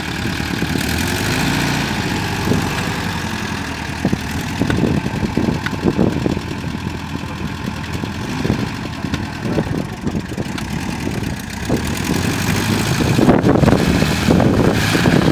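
Rear-mounted engine of a bare car floor pan running as it drives across grass, with an uneven, lumpy note. It gets louder late on as the chassis passes close by.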